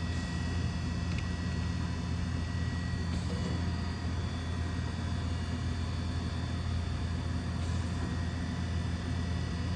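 DVF 5000 five-axis CNC machining centre running, giving a steady low hum with several steady whining tones above it and a few faint hisses.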